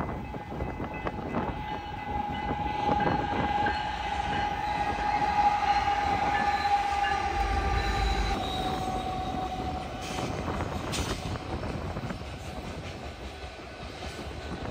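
Freight train rolling past, with a long, high, steady tone that slowly sinks in pitch over about ten seconds and then fades.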